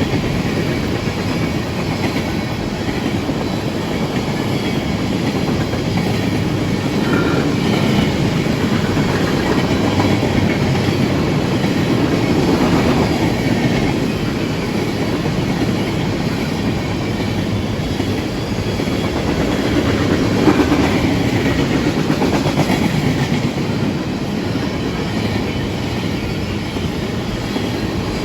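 Train cars rolling along the rails in a steady, continuous rumble, with clickety-clack of wheels over the rail joints and a few faint brief wheel squeals now and then.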